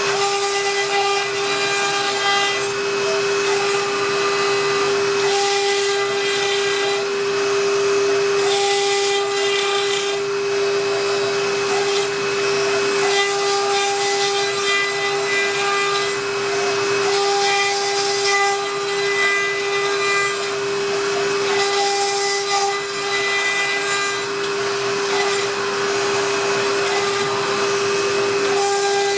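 CNC router spindle running with a steady whine while its bit cuts carbon fibre sheet, the rougher cutting noise swelling and fading every few seconds as the tool moves along its path.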